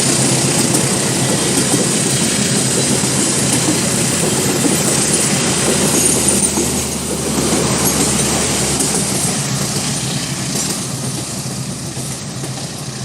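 Train passing at speed: loud, steady rush of wheels and carriages with a low hum underneath, dying away over the last few seconds.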